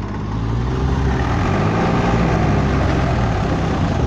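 Tractor engine running hard, its pitch rising and then falling as it revs up and eases off.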